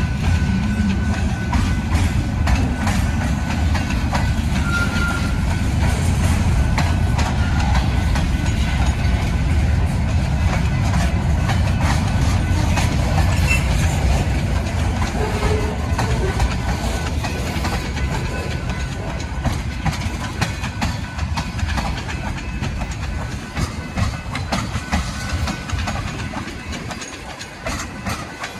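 A train rolling past, a steady heavy rumble with the wheels clicking over the rail joints, easing off near the end.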